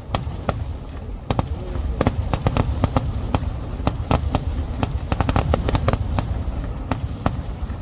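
Fireworks going off in a rapid, irregular barrage: many sharp firecracker cracks, several a second, over a constant low rumble of booms.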